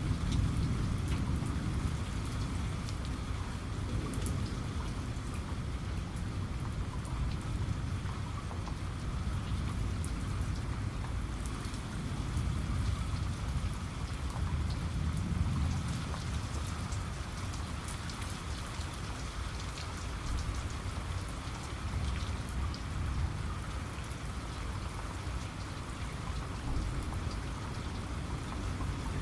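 Steady heavy rain falling, with a fine patter of drops and a low rumble of thunder that swells and fades at times.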